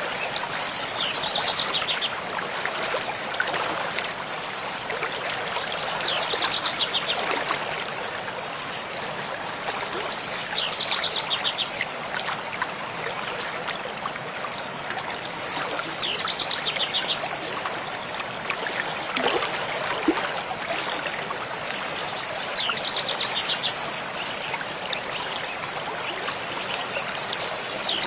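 Mountain stream flowing steadily. A songbird repeats a short phrase of rapid high notes about every five seconds, five times.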